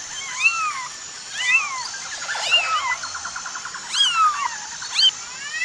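Kittens mewing: about five short meows, each rising and then falling in pitch, with a quick fluttering trill near the middle.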